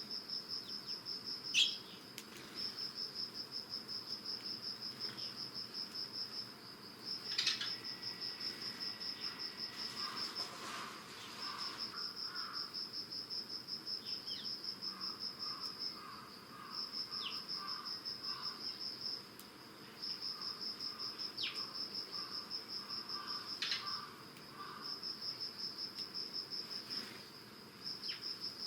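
Early-autumn insects singing: a high, fast-pulsing trill repeated in runs of several seconds with short pauses, with a lower rhythmic insect call at times beneath it. A few short tree sparrow chirps come through now and then.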